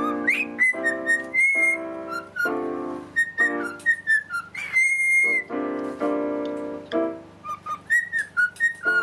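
A pet parrot whistling a tune in clear high notes and short slides, repeating the same phrases, over music of held chords.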